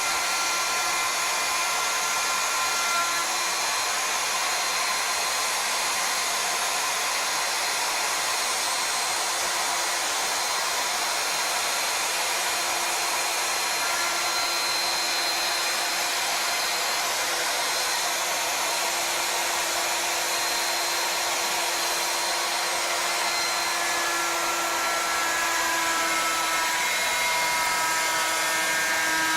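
CNC router spindle running steadily and cutting a hollow spiral into a wooden turning: a continuous high whine over a rushing hiss, its pitches shifting slightly near the end.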